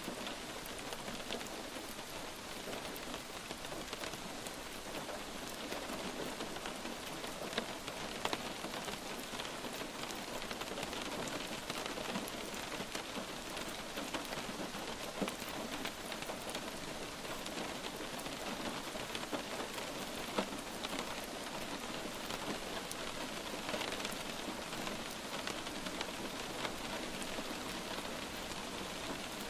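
Light rain falling steadily: an even hiss of rain with scattered single drops standing out as short ticks.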